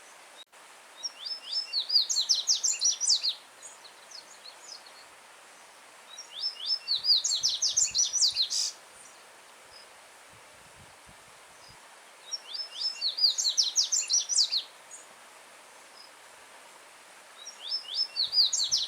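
Yellow-bellied seedeater (coleiro-baiano) singing: four loud phrases, each a quick run of sharp, falling high notes lasting about two seconds, spaced about four seconds apart, the last cut off at the end. A steady hiss of a stream running over stones sits beneath the song.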